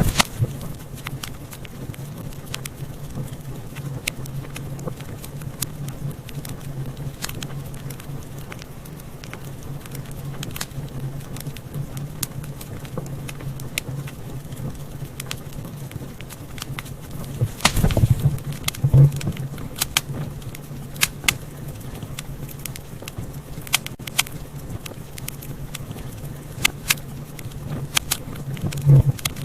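Wood fire crackling in a fireplace: scattered sharp pops and snaps, with a burst of louder pops about 18 seconds in and again near the end, over a steady low hum.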